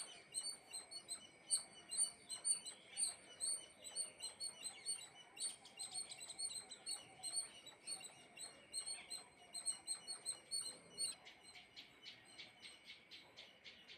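Small birds chirping, a dense stream of short, high chirps several a second, turning quicker and more clipped near the end.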